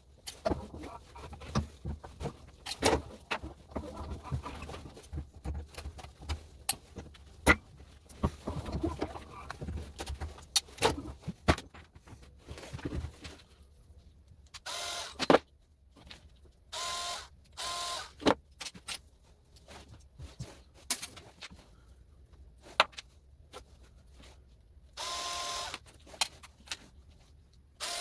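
Clicks, knocks and clatter of plastic and metal plug parts being handled and broken apart, then several short bursts of a small motorised tool, each under a second long, with a steady whine.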